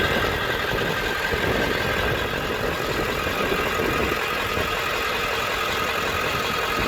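1995 Ford F350's 7.3 Powerstroke turbo diesel V8 idling steadily.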